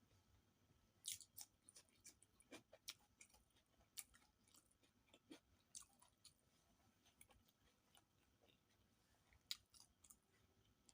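Faint close-up chewing: irregular wet mouth clicks and smacks of someone eating a meal of rice with fish and egg curry.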